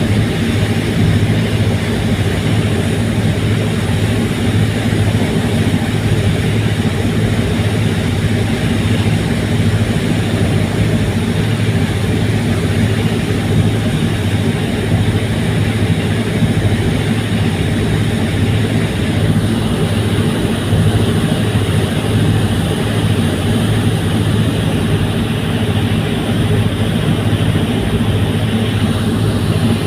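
Fast ferry's engines running with a steady low drone, unchanging throughout.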